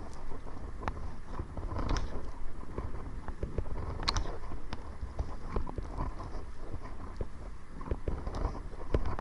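Kayak paddle strokes splashing in the water about every two seconds, with scattered sharp knocks and clicks. Wind rumbles on the microphone throughout.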